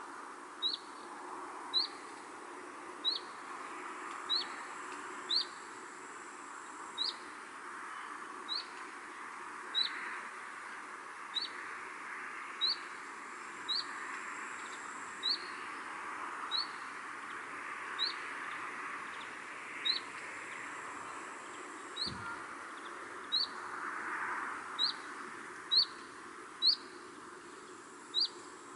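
A bird repeating one short, high, slightly rising chirp about every second and a quarter, steadily through, over a soft rushing background that swells and fades.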